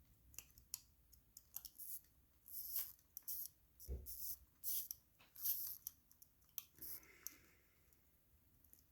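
Small metal clicks and short scraping sounds of watch tools handling watch parts, with one dull knock about four seconds in.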